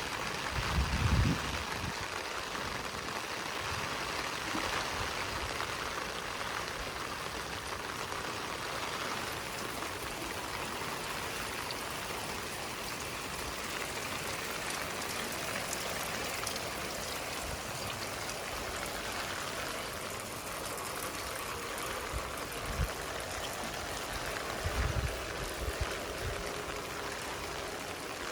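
Steady hiss of rain falling on the garden's leaves and ground, with a few soft low thumps about a second in and again near the end.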